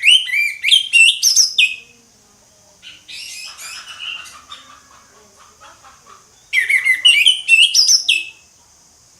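Orange-headed thrush singing: two loud phrases of rapid, clear whistled notes sliding up and down, one at the start and one about six and a half seconds in, with quieter twittering between them. A steady high hiss lies underneath.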